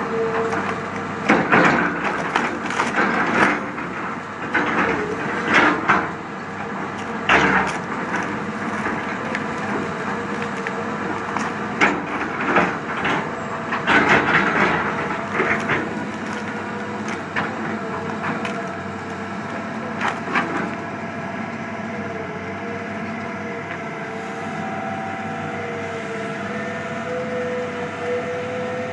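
Heavy forestry machine with its engine running steadily while wood cracks and splinters under it in loud, irregular bursts, which die away about halfway through and leave the engine running on alone.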